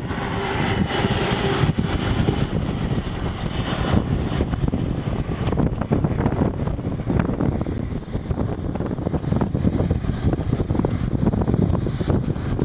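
Jet airliner's engines running as it passes, a steady rumbling noise with a brighter hiss and a held tone that fade after about two seconds, mixed with wind buffeting the microphone.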